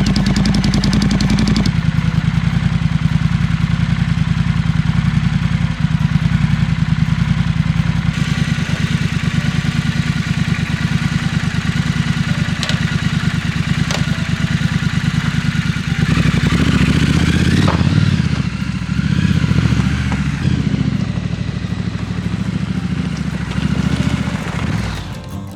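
Triumph Scrambler 1200 XE's parallel-twin engine running at a steady, even beat. From about 16 seconds in its note becomes uneven and rises and falls, then it fades at the very end.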